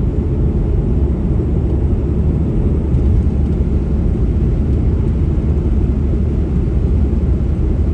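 Steady low rumble of the truck driving down the road, road and engine noise with no change in pitch.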